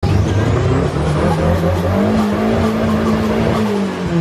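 Nissan 240's KA four-cylinder engine running just after being fired up, its revs rising a little about two seconds in and dropping back near the end.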